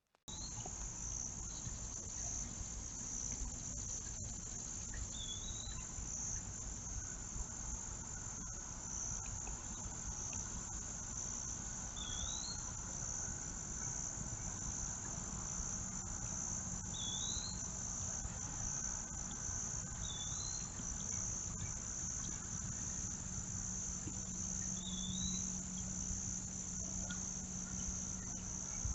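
Outdoor chorus of crickets: a steady, high-pitched trill that never lets up. About five short rising chirps sound several seconds apart over it, with a low rumble underneath.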